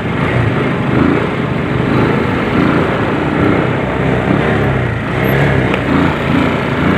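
Small motorcycle's engine running while riding through slow traffic, over a steady haze of traffic noise.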